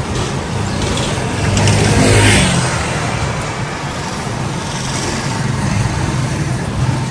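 Steady road-vehicle noise. About two seconds in, a louder vehicle passes close by, its pitch falling as it goes.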